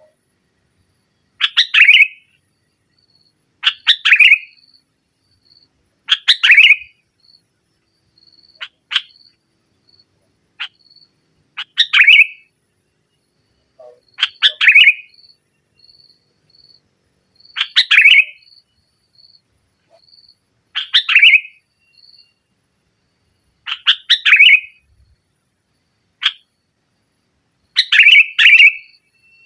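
Sooty-headed bulbul singing: short, loud, bubbling phrases repeated about every two to three seconds, with faint, short, high notes between them.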